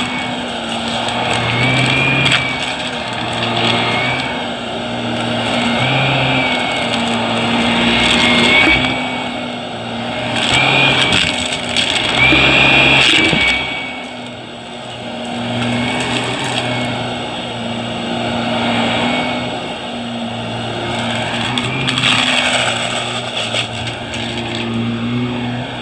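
Vacuum cleaner running as it is pushed quickly back and forth, its motor hum and high whine rising and falling with each stroke.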